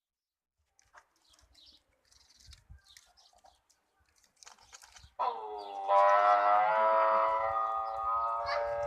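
A cow mooing: one long, drawn-out call starting about five seconds in, after a few faint rustles.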